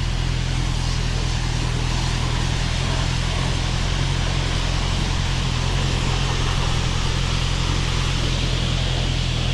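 Honda CBR650R's inline-four engine running at steady revs, with wind noise over it.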